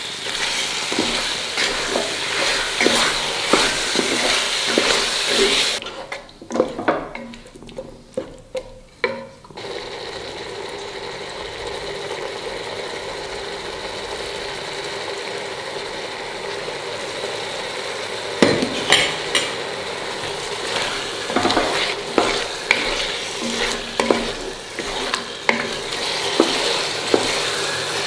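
Chicken frying in oil and yogurt in a pot, sizzling steadily, while a spatula stirs and scrapes, knocking against the pan. For a few seconds about a quarter of the way in, the sizzle drops away and only separate stirring knocks are left. The knocks come thick again in the last third.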